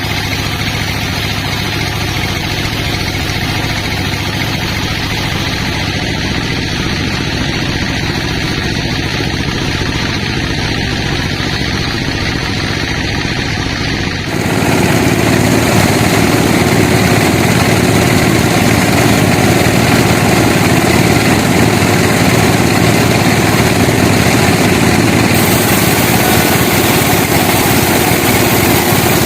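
Sawmill machinery running steadily with an engine-like hum; about halfway through the sound abruptly gets louder and fuller, as if the saw has gone into the wood.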